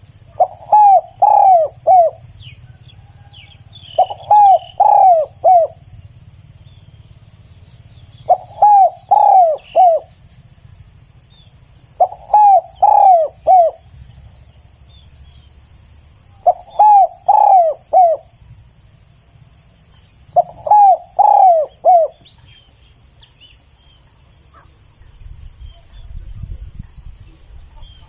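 Spotted dove cooing: six phrases of three to four rising-and-falling coos, one about every four seconds. Insects trill steadily and high in the background.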